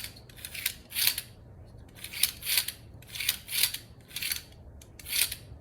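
Plastic intake-manifold flap mechanism of a Mercedes M271 engine worked back and forth by hand as the flaps open and close: a series of short dry scrapes, about eight, several in quick pairs.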